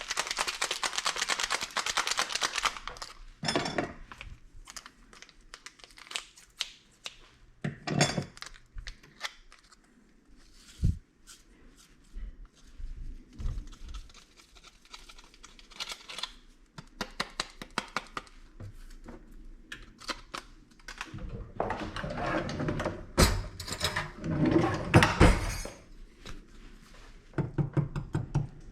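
Crinkling and tearing of packaging with scattered knocks and thuds as objects are handled. There is a long rustle at the start and another busy stretch of rustling and knocking near the end.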